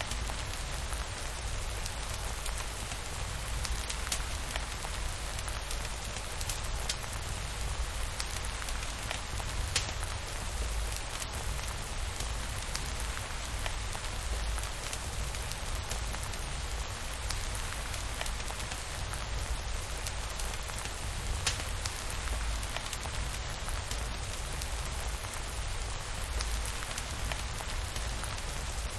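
Steady rain falling, an even wash of sound with a low rumble underneath and occasional sharp clicks scattered through it.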